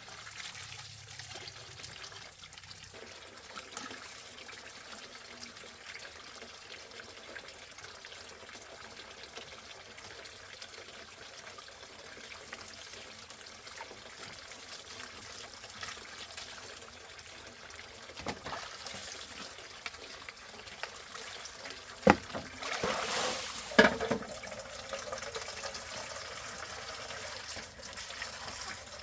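Water trickling steadily, with a few sharp knocks about two-thirds of the way in and a louder, busier stretch a little later.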